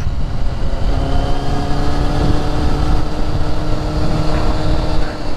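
Steady road noise from a vehicle travelling at highway speed, with a steady hum that comes in about a second in and holds its pitch until near the end.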